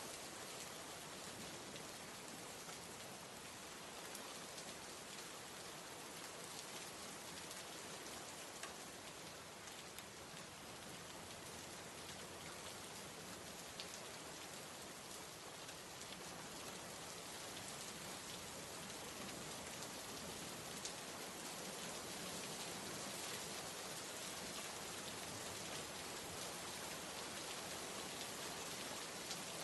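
Steady, faint rain falling, with a few separate drop ticks here and there.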